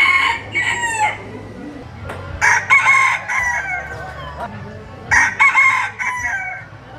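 Rooster crowing: three cock-a-doodle-doo crows about two and a half seconds apart, the first already under way at the start.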